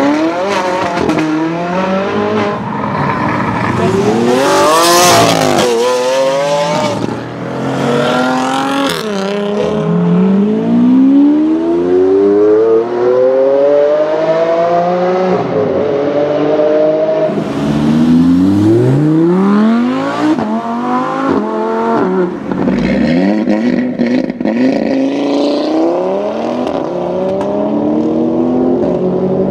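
Several high-performance sports car engines accelerating hard one after another, each revving up with a rising pitch that drops back at every upshift and climbs again.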